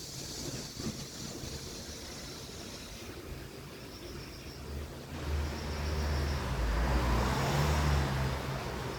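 A motor vehicle passing: a low rumble swells about halfway through, peaks, then begins to fade.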